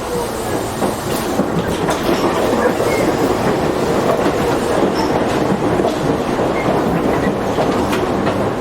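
Tobu 8000-series electric commuter train running, heard from inside the passenger car: a steady rumble of wheels on rail with scattered clicks over the rail joints, as it makes its final approach into the terminus.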